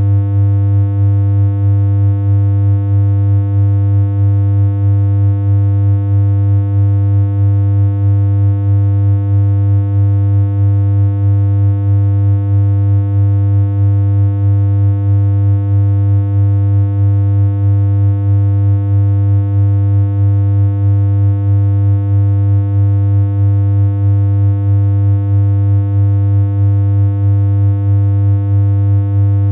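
A synthesized electronic hum: one low note held without change, with a slight regular pulsing in loudness.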